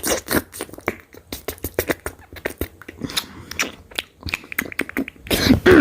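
A person chewing and biting food close to the microphone: many irregular sharp mouth clicks and crunches, with a short hummed vocal sound near the end.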